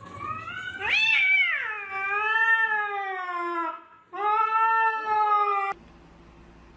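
Domestic cat giving two long, drawn-out meows. The first rises and then falls, and the second cuts off abruptly.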